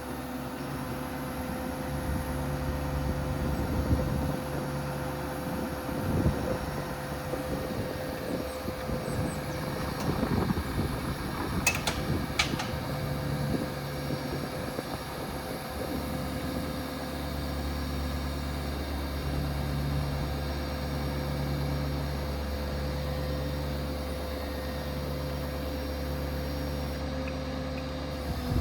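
Ford 6.7 Power Stroke diesel running at raised PTO idle, driving the hydraulic pump for the crane, its low note swelling and easing in repeated pulses. Two sharp clicks come about twelve seconds in.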